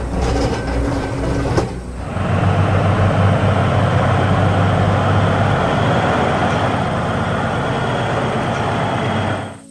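Heavy diesel quarry machinery running: a short stretch of engine sound with knocks, then, after an abrupt change about two seconds in, a steady loud engine and machinery rumble that fades out near the end.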